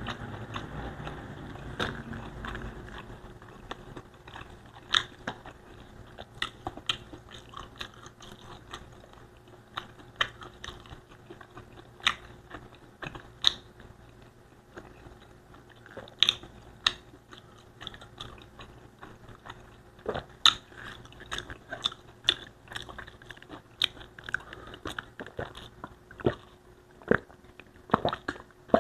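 Close-miked chewing of a mouthful of Bicol Express and rice, with irregular sharp mouth clicks and smacks a few times a second.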